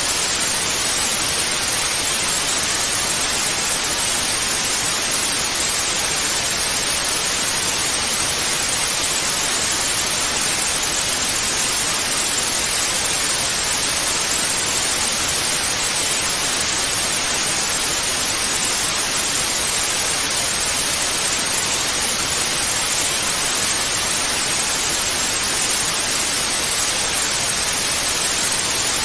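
Television static (white noise): a steady, unchanging hiss that is strongest in the treble.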